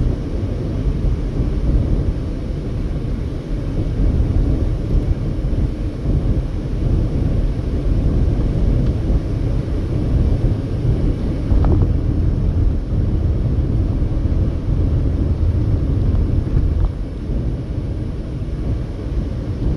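Steady low rumble of a car travelling at highway speed: road and tyre noise with the engine underneath.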